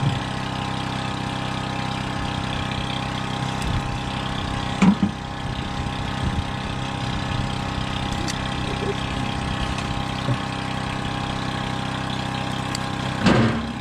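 Heavy-equipment engine idling steadily, with two brief louder noises, one about five seconds in and one near the end.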